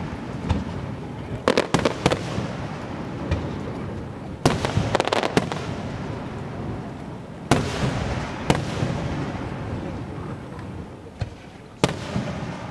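Aerial firework shells bursting overhead: sharp bangs, each trailed by a rolling echo. A quick cluster of bangs comes about four to five seconds in, with single bangs before and after it.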